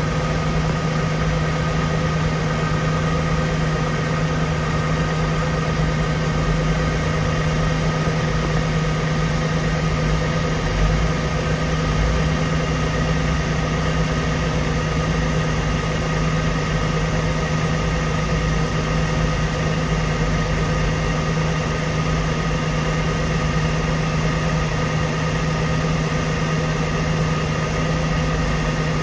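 An engine running steadily at an unchanging speed, a constant droning hum.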